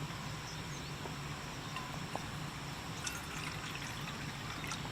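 Steady running-water noise with a few faint light clicks.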